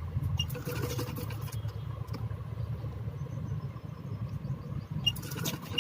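Electric sewing machine running steadily, stitching fabric, with a few sharp clicks about half a second in and again near the end.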